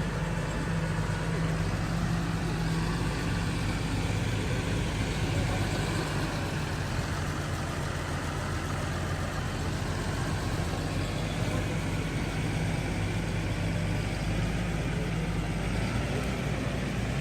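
Challenger MT665D tractor's diesel engine running at a steady speed, a low even drone that holds without change.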